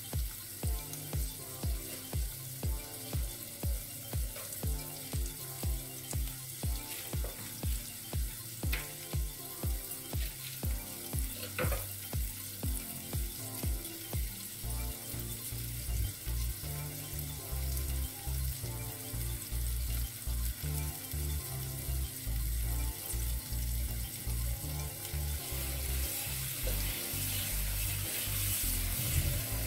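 Chopped onion, green chili and tomato sizzling in a nonstick frying pan, a steady high hiss. Background music with a steady beat plays along.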